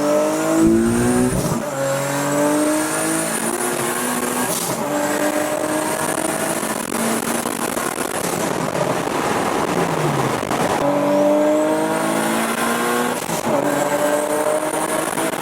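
Turbocharged Nissan 370Z's V6 at full throttle: the engine note climbs, drops at each upshift and climbs again, with a high turbo whistle rising alongside. It eases off about halfway through, then makes a second pull with another shift near the end.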